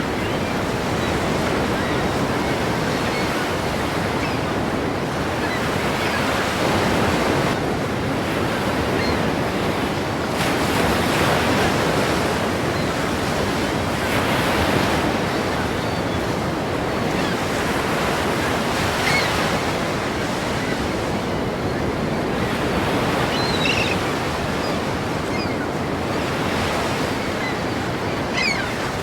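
Ocean surf: waves breaking continuously, the rush swelling and easing every few seconds, with wind.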